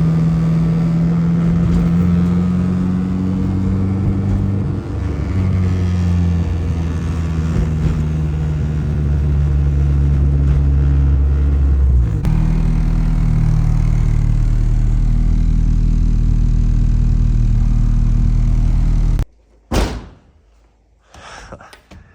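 Turbocharged Honda Civic's engine running as the car drives, its note holding steady with a few changes in pitch. It cuts off suddenly near the end, leaving a few faint knocks.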